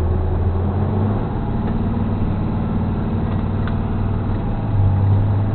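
Flatbed tow truck's engine heard from the cab, pulling away and accelerating. The engine note rises over the first couple of seconds, then holds steady.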